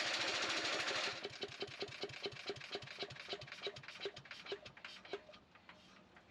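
Wood chipper's small gas engine running, then shut off about a second in; the engine and chipper coast down with a series of slowing thumps, about five a second easing to under two a second, and stop about five seconds in.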